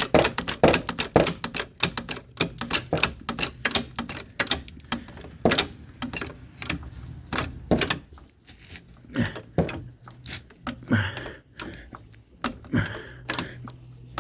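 Hydraulic floor jack being pumped to lift the van: a quick run of sharp metallic clicks and knocks, about two or three a second, thinning out in the second half, over a steady low hum.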